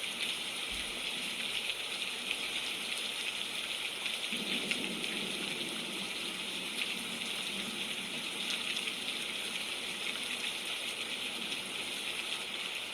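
Steady rain falling, an even hiss dotted with small drop crackles.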